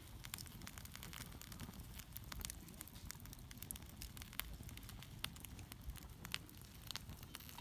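Wood campfire crackling, with frequent irregular sharp snaps over a low steady rumble.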